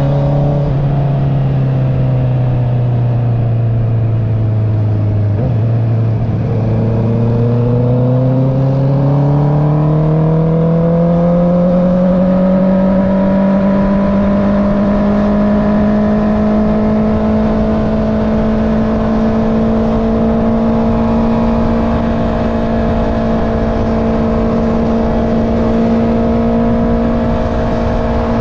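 Honda CB650R inline-four engine through an Akrapovic exhaust, heard from the saddle while riding. The engine note drops as the bike slows for the first five seconds or so, rises steadily as it accelerates, then holds a steady cruise from about twelve seconds in.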